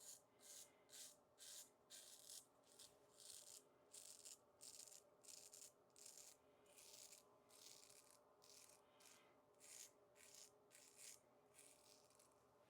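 Faint scratchy shaving strokes over lathered skin, repeating about twice a second.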